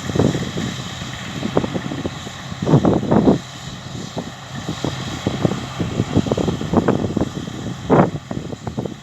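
Wind buffeting the microphone in irregular gusts, strongest about three seconds in and again near the end, over the steady running of a combine harvester at work.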